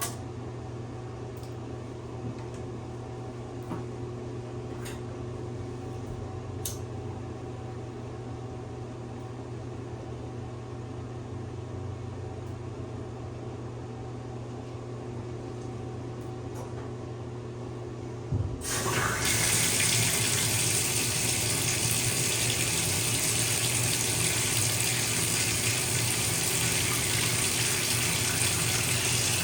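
A low steady hum with a few faint clicks, then about two-thirds of the way in a bathtub tap is turned on and water gushes steadily into the tub, filling it.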